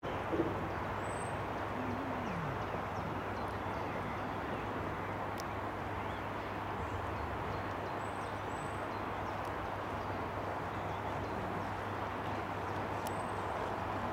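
Steady rushing outdoor noise with a low hum, and a few short high bird chirps scattered through it.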